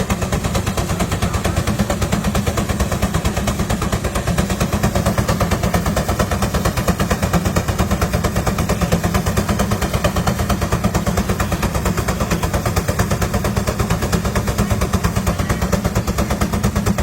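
Vintage engine running steadily, unmuffled, with a rapid, even firing beat.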